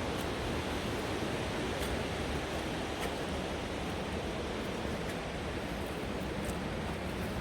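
Steady rushing of the Green River's rapids, a constant full roar of white water.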